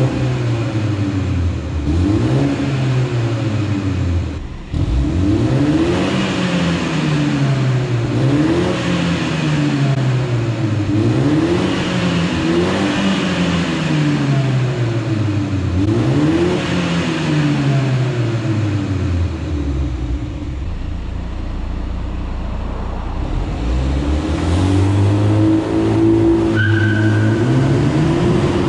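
BMW G20 330i's 2.0-litre turbocharged four-cylinder on its stock exhaust, revved about eight times in a row, each rev rising and falling over a couple of seconds. The engine then settles lower as the car moves off, and its pitch climbs again near the end as it accelerates, inside a concrete parking garage.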